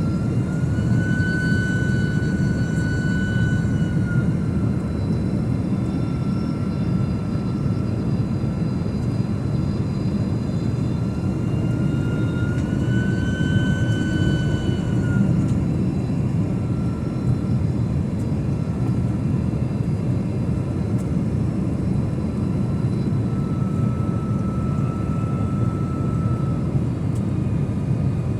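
Jet airliner engines running on approach: a steady low rumble with a thin engine whine on top. The whine rises in pitch twice and settles back each time.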